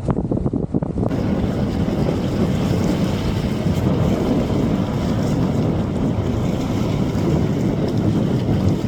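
Wind buffeting the phone's microphone over the rush of water and waves around a small sailboat, with a change in the sound about a second in.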